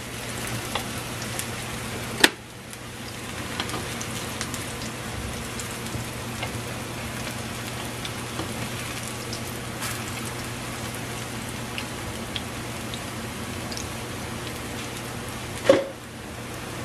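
Plantain slices frying in grapeseed oil in a pan: a steady sizzle with small crackles. A sharp knock comes about two seconds in and another near the end.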